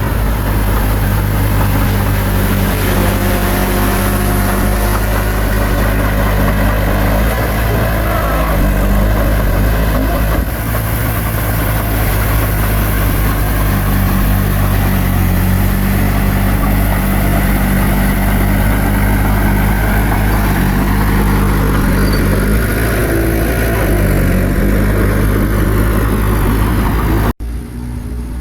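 Bulldozer's diesel engine running steadily, its note rising and falling once near the end. The sound cuts off abruptly just before the end and returns quieter.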